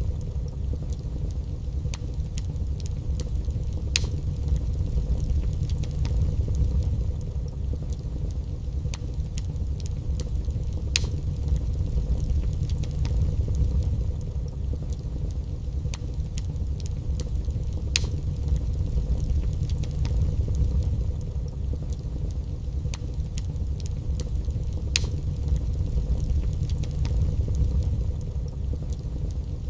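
Wood fire in a fireplace crackling: sharp pops every second or few over a steady low rumble.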